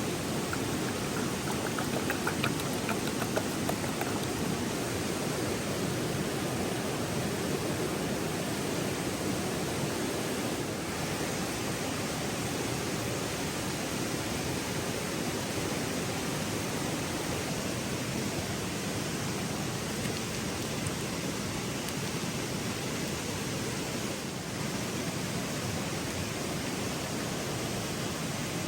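River water rushing steadily, an unbroken even wash of sound. A few faint ticks come about two to three seconds in.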